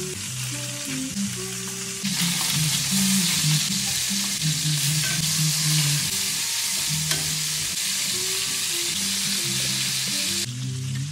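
Chicken thighs sizzling as they sear in hot fat in a skillet, turned with metal tongs. The sizzle gets louder about two seconds in and drops off near the end.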